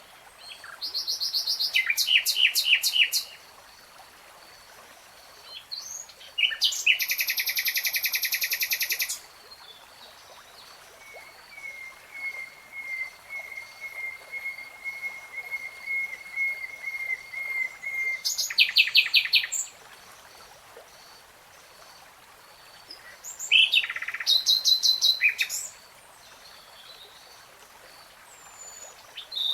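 Nightingale singing: four loud phrases of fast trills and rapidly repeated notes, separated by pauses of a few seconds, with a long run of quick, softer notes on one pitch in the middle.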